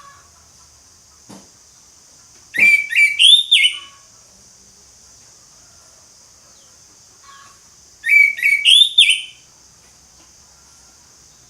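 Orange-headed thrush singing two loud whistled song phrases, one about two and a half seconds in and one about eight seconds in. Each phrase lasts about a second and is made of quick rising and falling notes. A steady high hiss runs underneath.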